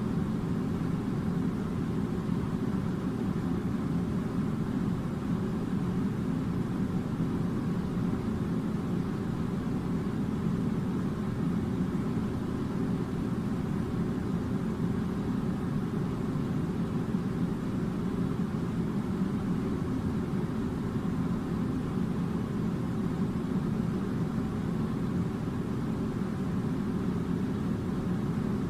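Air conditioner running with a steady low hum that holds at one level throughout.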